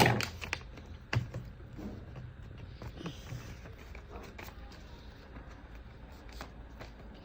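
A sheet of paper being handled and folded: a loud crackle at the start, then scattered light clicks and rustles that grow sparser.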